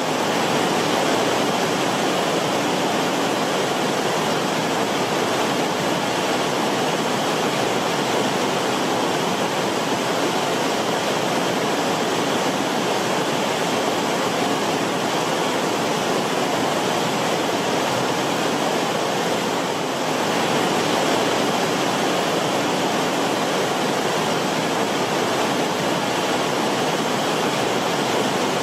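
Creek water flowing steadily over rocks in the creek bed, rippling and bubbling.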